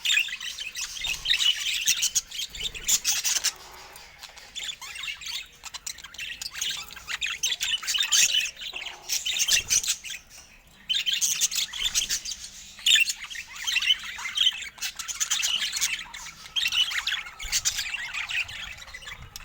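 Budgerigars chattering: rapid chirps and squawks in bursts, easing off about four seconds in and again around ten seconds.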